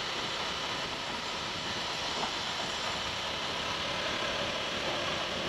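Steady rush of wind and road noise from a motorcycle on the move, with the bike's engine running underneath.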